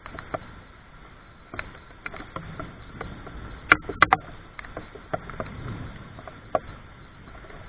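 Scattered raindrops tapping irregularly, with a quick cluster of three sharper taps about four seconds in, over a low steady background noise.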